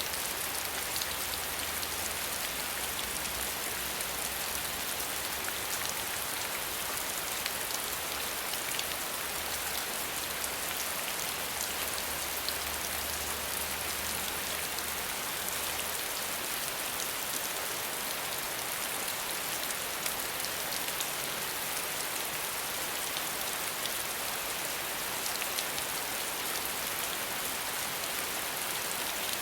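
Steady rain falling, without thunder, with scattered ticks of individual drops.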